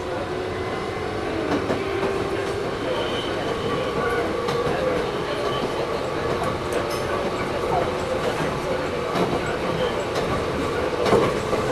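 Toyohashi Railway 1800 series (ex-Tokyu 7200) resistance-control electric motor car running, heard from inside the car: a steady motor and gear hum over wheel rumble, with a few clicks as the wheels cross rail joints. Air-conditioning noise sits under it.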